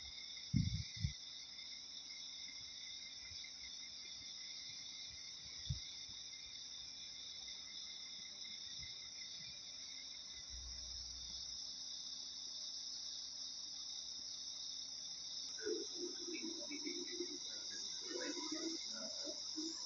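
Steady, high-pitched insect chirring, like crickets, with a few low bumps in the first seconds and faint irregular chatter near the end.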